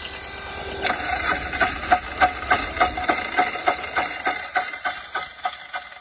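1999 Polaris 455 single-cylinder diesel being cranked over in the cold on a boosted battery, with no glow plugs: a regular knock on each compression stroke, about three to four a second, fading toward the end as it struggles to catch.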